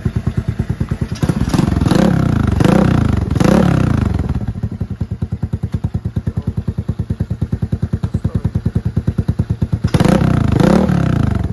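Zuumav S3 125cc dirt bike engine idling with a steady fast beat, blipped three times in quick succession a couple of seconds in and twice more near the end, each rev rising and falling back to idle.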